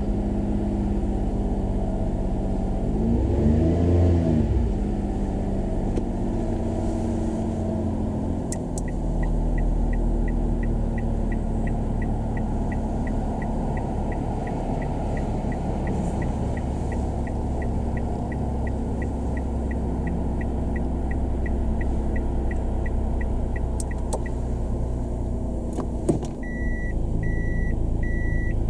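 Toyota Roomy's 1.0-litre three-cylinder engine idling, blipped once early on so its pitch rises and falls, then settling to a steady idle. A light regular ticking, about three a second, runs through the middle, and after a knock near the end a pulsed reverse-gear warning beep starts.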